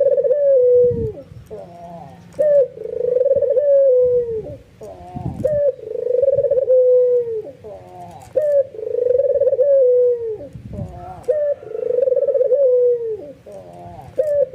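White albino Barbary dove giving its bowing coo over and over, about one call every two seconds. Each call is a short rising note run into a long, steady coo.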